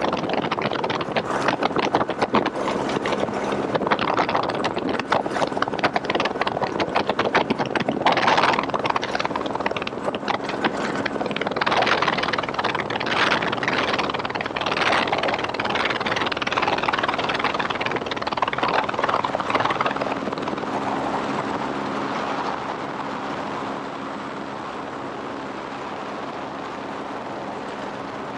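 Helicopter rotor and engine running steadily, with a faint steady hum under heavy, gusting wind noise on the microphone. The buffeting eases and the sound becomes steadier and a little quieter about 24 seconds in.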